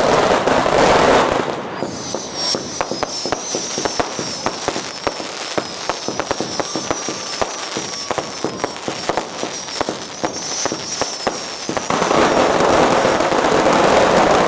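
Strings of firecrackers going off in a rapid crackle of sharp pops. It is densest and loudest in the first second or so and again near the end, thinning to scattered cracks in between.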